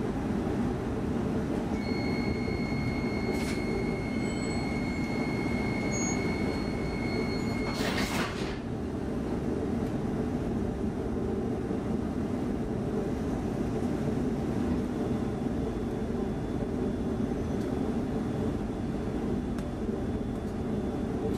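Inside a standing X10 commuter train: a steady low hum from the train's equipment. A steady high beep sounds for about six seconds and ends in a loud thud about eight seconds in, typical of the door-closing warning and the doors shutting.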